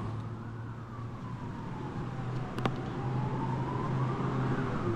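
Emergency-vehicle siren wailing, its pitch slowly rising and falling, over a steady low hum; a single sharp click about two and a half seconds in.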